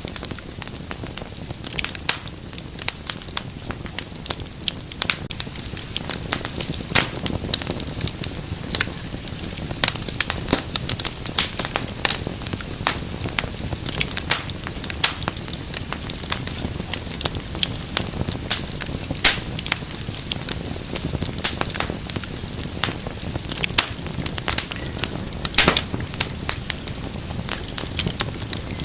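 Wood fire in a fireplace crackling, with frequent sharp pops over a low, steady rustle of burning.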